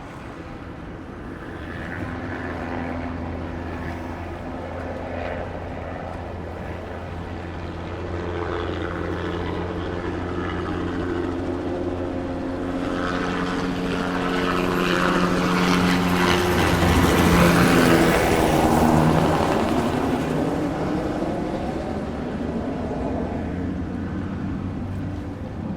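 An engine with a low, steady hum passing by: it builds up gradually, is loudest about two-thirds of the way through, then fades a little, its pitch sliding down slightly as it goes past.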